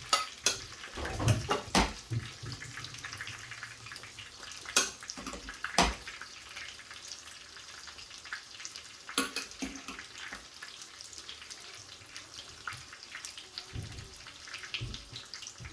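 Metal spoon knocking and scraping against the rice pot and plate, several sharp clicks, over a steady hiss of chicken frying in oil in a pan.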